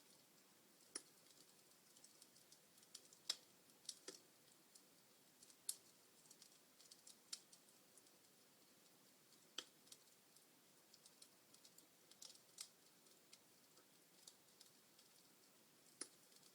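Wood fire in a fireplace crackling: irregular sharp pops and snaps of burning logs over a faint hiss, a few louder pops standing out.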